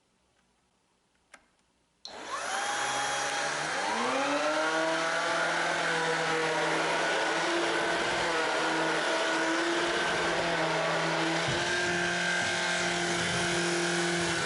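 Shark Pet Plus cordless stick vacuum switched on, its motor whine rising over about two seconds to full speed and then running steadily. A faint click sounds just before it starts.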